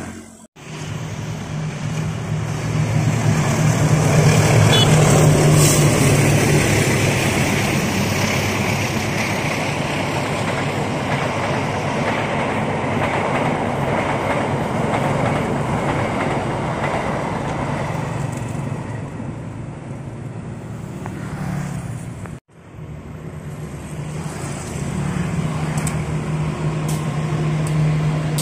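Passenger train passing close by at speed: the rumble of its coaches on the rails over a steady low engine drone, swelling over the first few seconds and then easing. After an abrupt cut about three quarters of the way through, a KAI diesel locomotive runs past with the same kind of drone.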